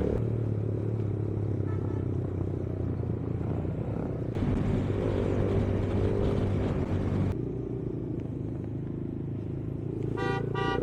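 Yamaha YBR 125G's single-cylinder four-stroke engine running steadily at road speed. Two short horn beeps sound near the end.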